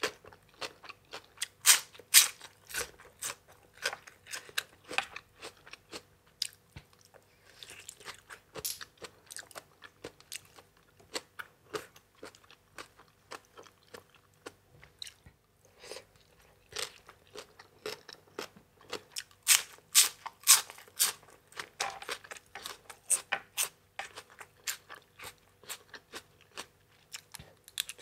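Close-miked chewing and crunching of spicy papaya salad with crisp raw vegetables, a steady run of sharp crunchy bites, loudest about two seconds in and again around twenty seconds in.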